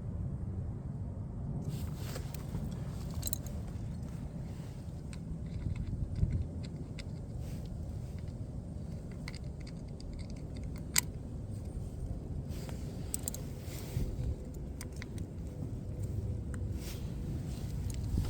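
Scattered sharp clicks and light metallic clinks of handling, over a low steady rumble.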